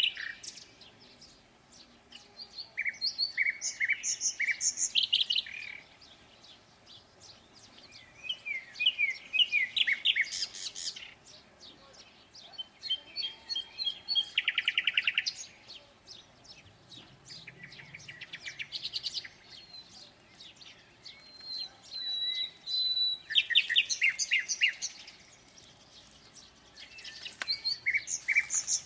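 Songbird singing in separate phrases of quick chirps and trills, each a few seconds long, with short pauses between them. One phrase about halfway through is a rapid trill.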